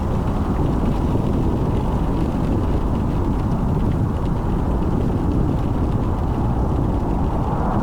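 Car driving through rain: a steady, even rumble of road and tyre noise.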